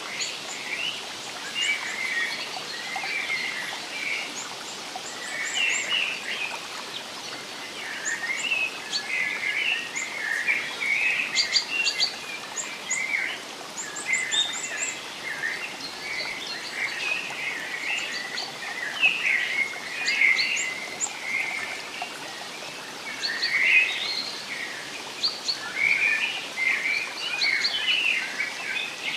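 Several songbirds chirping and warbling continuously in a forest, with a steady soft hiss underneath.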